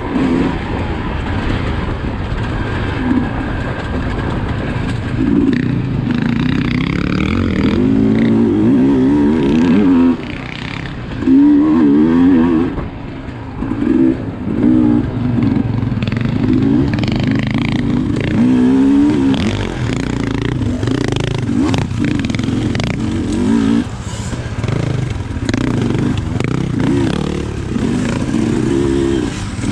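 Sherco SE 300 two-stroke enduro motorcycle engine revving up and down over and over as the throttle is opened and closed, with scattered knocks. It dips briefly about ten and thirteen seconds in.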